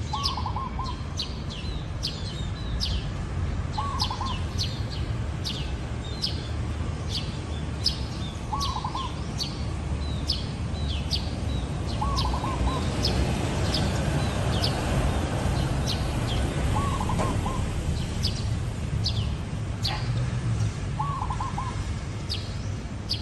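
Zebra dove cooing: a short burst of rapid staccato notes, repeated about every four seconds, six times. Many sharp high chirps from other small birds run throughout over a steady low rumble.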